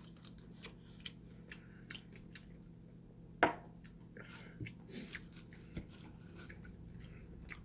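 Quiet eating sounds: chewing with scattered small clicks and taps, one sharper tap about three and a half seconds in, over a faint steady hum.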